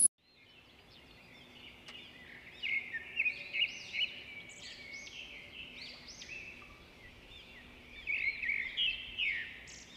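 Small birds chirping and singing, with rapid high-pitched notes clustered about three to four seconds in and again near the end, over faint outdoor background noise.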